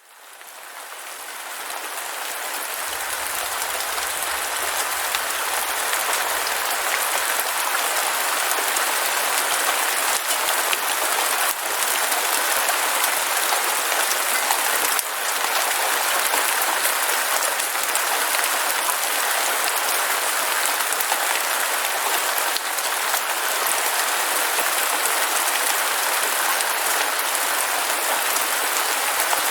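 Heavy rain falling in a steady hiss of dense drops, fading in over the first few seconds and then holding steady.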